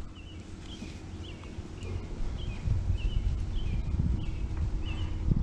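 A small bird chirping over and over, short falling chirps about two a second. Under it, a low rumble of wind and handling that grows louder about two seconds in.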